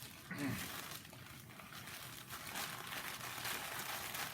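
Wrapper crinkling and rustling as it is handled, louder near the end, with a brief vocal sound about half a second in.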